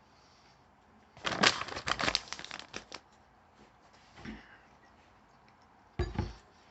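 Paper sandwich wrapper being handled and crinkled, with about two seconds of dense crinkling, then a shorter rustle with a thump near the end.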